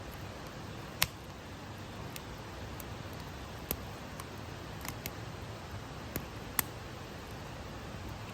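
Wood fire crackling: a steady low hiss broken by a few sharp, irregularly spaced pops. The loudest pop comes about a second in and another late on.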